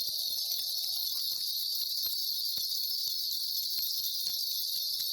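Steady high-pitched chirring of crickets, with a faint wavering hum in the first second.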